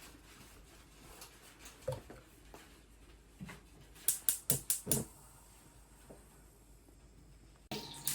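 Quiet kitchen handling sounds: a few scattered light taps, then a quick run of about six sharp clicks and taps about four seconds in.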